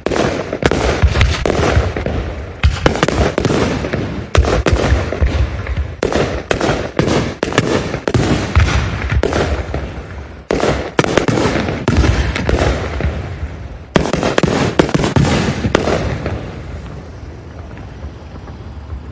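Aerial fireworks going off in a rapid barrage: many sharp, overlapping bangs with echoing tails. About sixteen seconds in the bangs stop and the rumble fades away.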